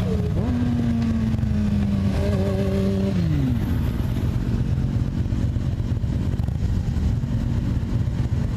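Motorcycle engine running under throttle: its note steps up just after the start, holds steady for a few seconds, then falls away about three seconds in as the throttle is rolled off. A steady low rumble of wind and road noise runs under it and carries on after the engine note drops.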